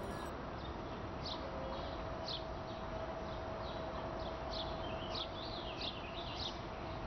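Small birds chirping over a steady outdoor background hiss: short high chirps that slide downward, about one a second, with a quicker run of wavering calls a little past the middle. A faint steady hum runs underneath.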